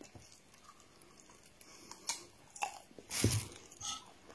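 A person chewing garri and coconut close to the microphone, with a few short crunchy clicks. A louder thump comes about three seconds in.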